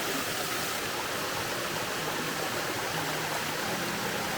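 Steady rush of a small jungle waterfall pouring into a swimming hole, an even wash of falling water.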